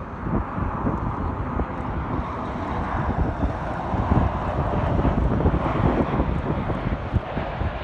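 Jet airliner's engines running steadily as it comes in on its landing approach, with gusty wind buffeting the microphone.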